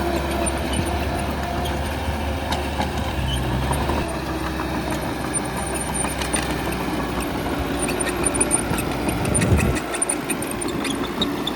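Diesel engine of heavy earthmoving machinery running steadily, with scattered clanks. About nine and a half seconds in there is a brief louder surge, after which the low rumble dips for a moment.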